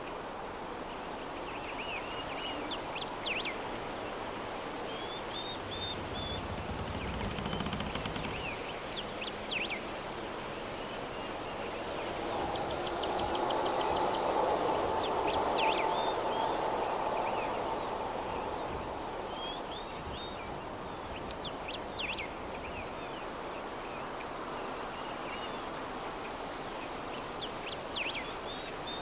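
Soft breeze ambience with small birds chirping again and again, including a quick trill. The breeze swells briefly about halfway through.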